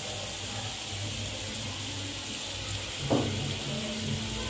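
Shredded vegetables and chicken sizzling steadily in a pot as they stir-fry, with a single sharp knock about three seconds in.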